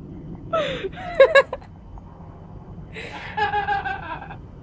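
Parrot imitating human laughter: a short falling chuckle about half a second in, then a longer, pulsing laugh near the three-second mark.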